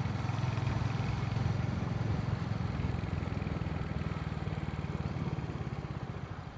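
Royal Enfield motorcycle engine running steadily while riding, with a low even beat, getting a little quieter near the end.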